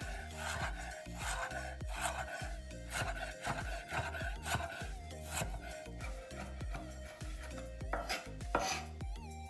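A kitchen knife slicing through food on a wooden cutting board, with repeated rasping strokes. Background music runs underneath.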